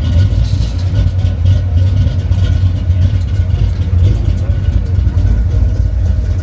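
Car engine running with a throaty exhaust note: a steady, deep rumble.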